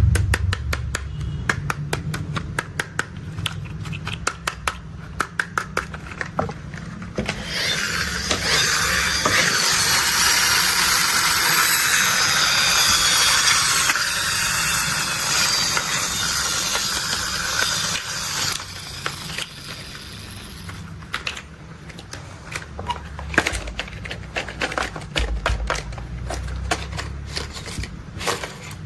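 Plastic construction-vehicle toys being handled: a quick run of clicks and taps, then about ten seconds of loud, even rustling noise, then scattered clicks and knocks again.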